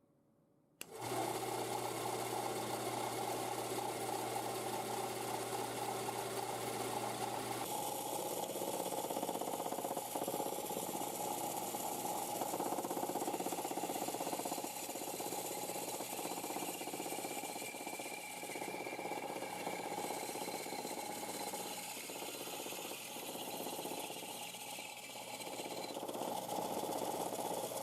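Homemade 10-inch band saw running steadily, its motor and blade going with a steady hum. The sound starts abruptly about a second in and changes in tone about eight seconds in.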